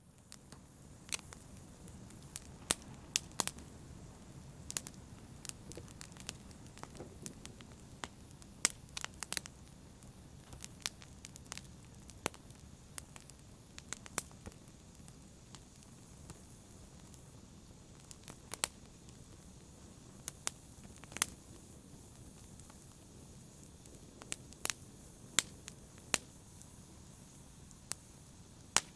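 Campfire crackling: irregular sharp pops and snaps, a few seconds apart, over a low steady rumble of the flames.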